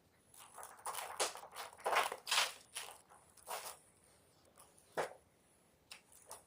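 Block of gym chalk being crushed, giving a run of dry crunches and crackles for the first few seconds, then a few single crunches with quiet gaps.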